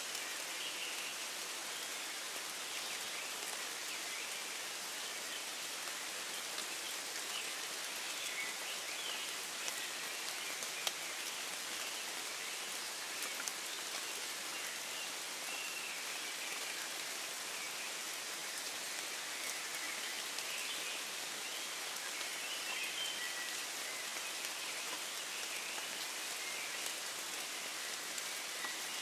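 Steady rain falling in woodland, with a few louder single drops. Faint birdsong of the dawn chorus sits behind the rain.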